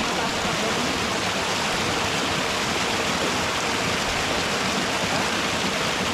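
Rushing water from a stream or waterfall, a steady, unbroken roar.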